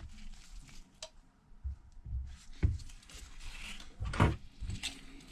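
Light clicks, knocks and rustling of small tools and phone parts being handled and set down on a workbench, with two sharper knocks a little over two and a half seconds in and about four seconds in.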